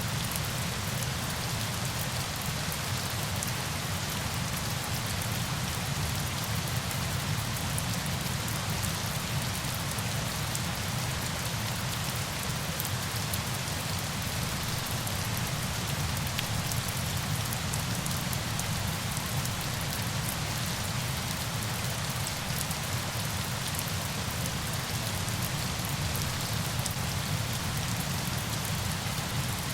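Falling water: a steady, even rush of water noise with a low rumble underneath and fine splashing droplet ticks on top.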